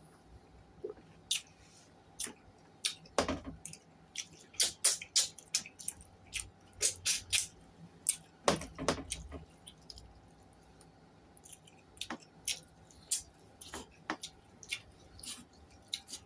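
Close-miked wet eating sounds: a person chewing and smacking, with many short irregular clicks and squishes.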